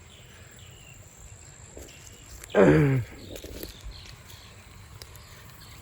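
Steady high-pitched drone of crickets and other insects. About two and a half seconds in comes a brief, louder vocal sound that falls in pitch.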